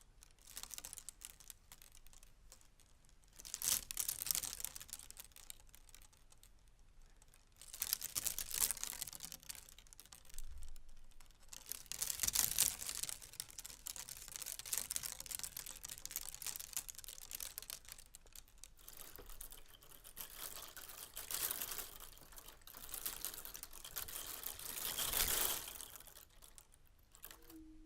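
Irregular crinkling, rustling and clicking of handled objects, coming in clusters every few seconds.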